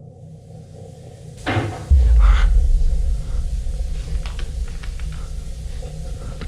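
A door bangs about a second and a half in, followed at once by a loud, deep rumble that slowly fades over several seconds.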